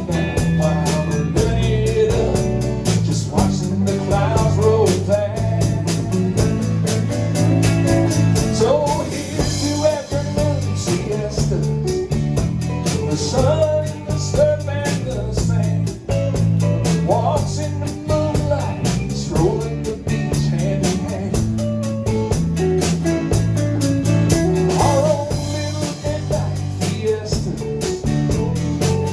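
A band playing an upbeat song with guitar and drum kit, a melody line wavering over a steady bass.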